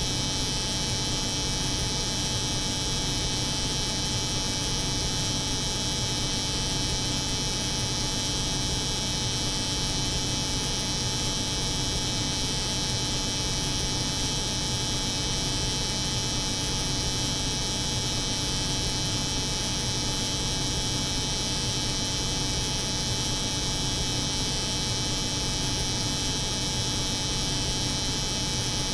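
Layered steady noise: an electric hair clipper buzzing continuously over the hum of a cold room's refrigeration machinery. Low hum with a bright high-pitched band on top, unchanging throughout.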